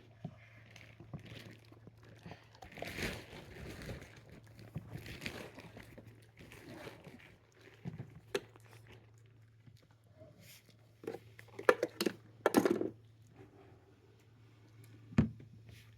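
Crinkling and rustling of packaging with scattered knocks and clicks as a dog noses into a fridge and picks up an item in its mouth.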